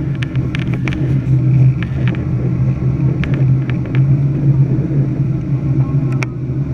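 Jet airliner engines and airframe heard from inside the cabin of a Ryanair Boeing 737-800 on take-off: a loud, steady low drone and rumble, with a few short clicks and rattles.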